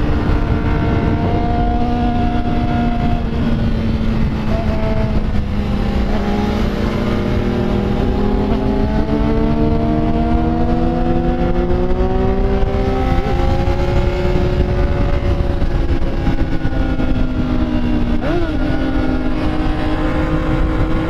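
Motorcycle engine running while riding, its pitch drifting slowly up and down, with two short blips of revs, one about two-thirds of the way through and one near the end. Heavy wind rumble on the microphone underneath.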